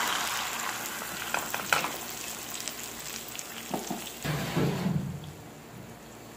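Oil sizzling in a non-stick frying pan as a Spanish potato omelette is slid back in to cook its second side; the sizzle slowly dies down, with a few light clicks and soft knocks from the plate and pan along the way.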